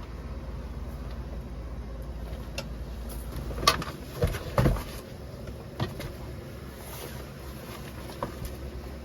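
A handful of short knocks and clicks, the loudest about four seconds in, over a steady low rumble.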